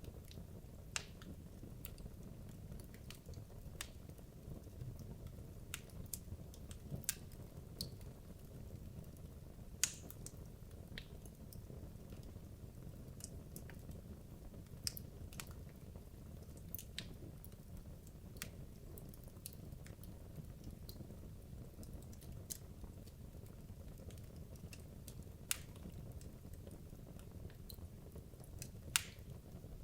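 Wood logs burning in a fireplace: a steady low rumble of the fire with irregular sharp crackles and pops, a few louder snaps scattered through.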